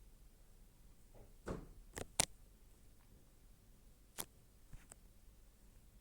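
A few short clicks and light knocks against quiet room tone: a softer knock about a second and a half in, two sharp clicks close together just after two seconds, the second the loudest, then another click past four seconds and a faint pair soon after.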